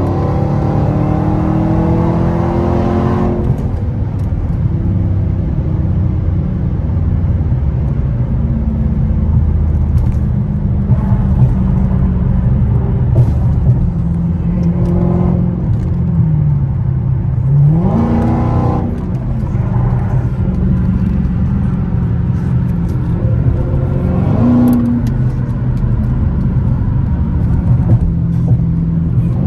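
Dodge SRT Hellcat's supercharged V8 heard from inside the cabin at highway speed. It revs up hard near the start, holds a steady cruise, then revs up again twice, about 17 seconds in and about 24 seconds in.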